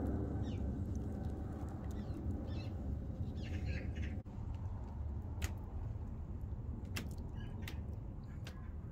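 Birds calling, with one squawking call about three and a half seconds in, over a steady low rumble, and a few sharp clicks in the second half.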